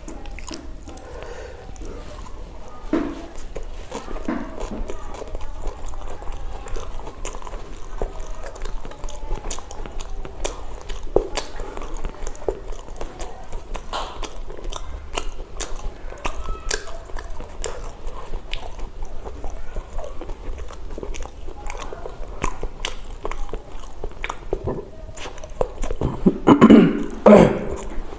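Close-miked chewing and mouth clicks of a person eating pav bhaji: soft buttered bread rolls with a mashed vegetable curry. Near the end, a louder low sound from the throat.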